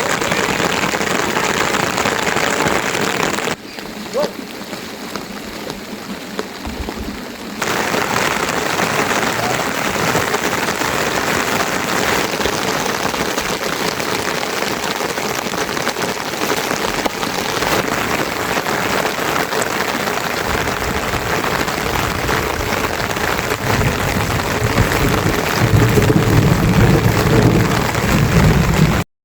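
Steady rain falling, a dense, even hiss, with a quieter stretch a few seconds in. A low rumble builds over the last several seconds.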